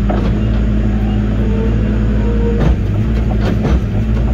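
Diesel engine of a piece of heavy earthmoving equipment running steadily, with several short knocks in the second half as the machine works.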